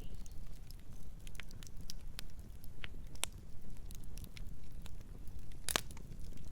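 Campfire burning: a steady low rumble of flames with scattered crackles and snaps, and one louder pop near the end.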